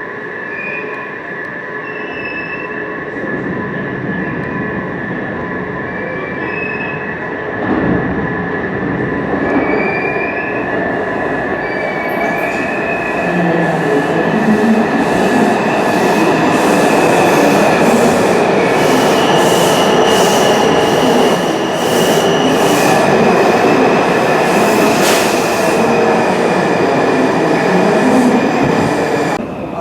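A Washington Metrorail subway train running through a station, its rumble growing louder over the first half. Squealing wheels and a steady whine run throughout, with a run of clicks over the rails in the second half, and the sound cuts off abruptly near the end.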